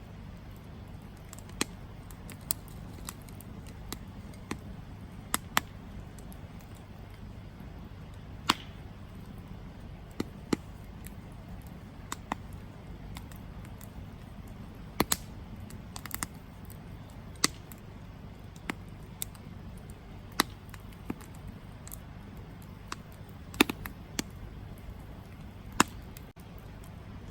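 Wood campfire burning, crackling and popping in sharp irregular snaps over a low steady rumble of the flames.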